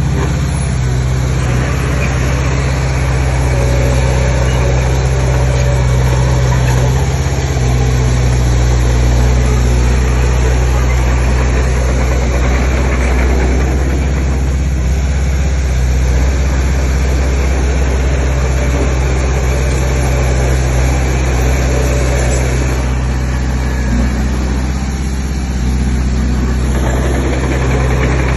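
Heavy earthmoving machine's diesel engine running steadily at a constant speed, with small changes in load about a third of the way in and again near the end.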